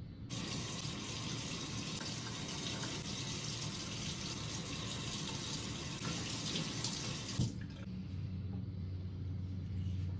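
Sink tap running, water splashing into the basin, then shut off abruptly about seven and a half seconds in, leaving a low hum.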